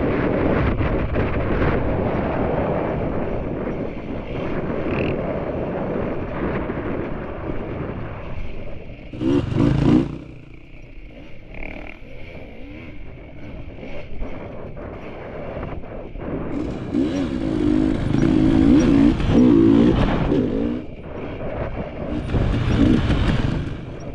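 KTM enduro dirt bike engine being ridden, revving up and easing off over and over. It climbs hard about nine seconds in and again several times later, with a quieter stretch between.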